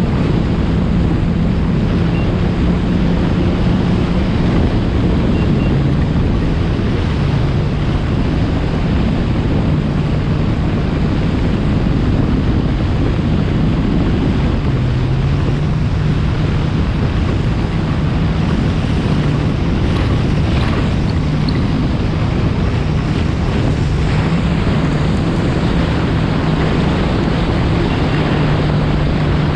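A 2020 Yamaha FX SVHO jet ski's supercharged four-cylinder engine running at a steady cruising speed, its tone drifting slightly up and down, with water rushing past the hull and wind on the microphone.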